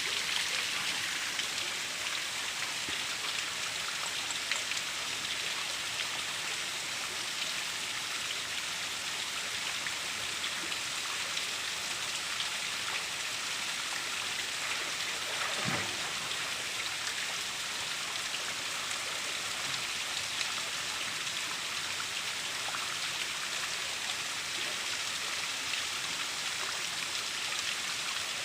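Steady hiss of falling and rushing water from a waterfall and its rocky stream.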